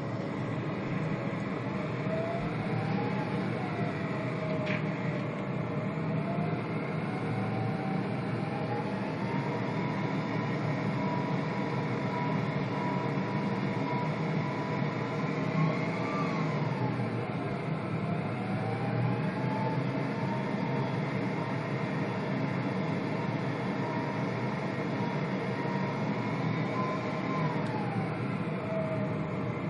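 Avro RJ100 cabin noise: a steady rumble from the airliner's four turbofan engines, with an engine whine that climbs and falls several times as thrust is adjusted. The whine rises over the first ten seconds, drops sharply just past the middle, then climbs again and falls near the end.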